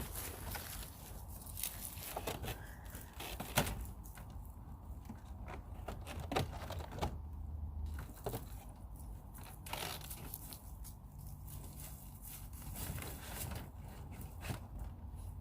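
Irregular rustling and scraping with scattered sharp clicks and knocks, the sound of hands working with loose mobile-home skirting.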